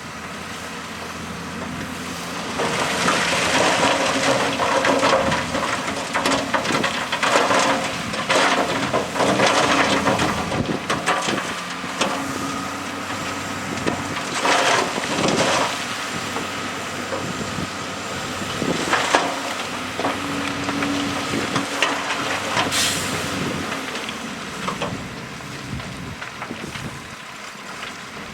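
Heavy earthmoving machinery working: diesel engines running steadily under repeated crunching and clattering of rock and dirt being pushed, loaded or dumped, with a brief high hiss late on.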